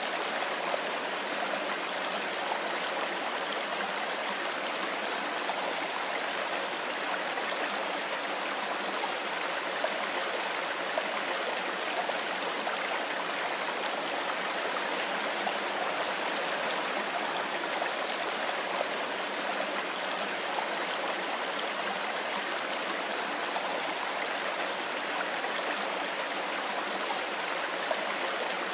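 Mountain river flowing over stones: a steady, unbroken rush of running water.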